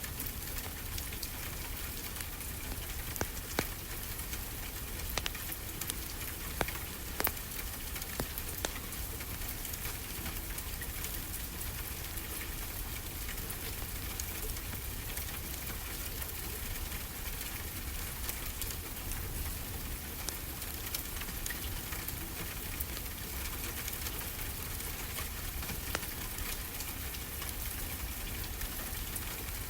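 Wood fire crackling, with scattered sharp pops, over a steady rushing wash of ocean surf.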